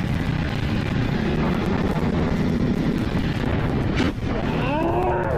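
Wind buffeting the microphone over a vehicle's low, steady rumble while moving, with a sharp click about four seconds in.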